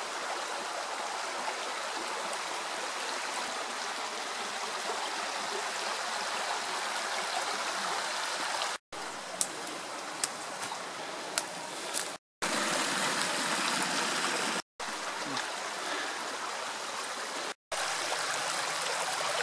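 Creek water rushing and gurgling steadily. A few sharp clicks or knocks fall a little after the middle, and the sound drops out completely for an instant four times.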